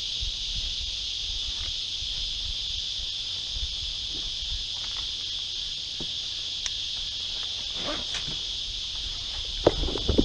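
Steady, unbroken high-pitched chorus of insects in the bush, with a few sharp knocks near the end.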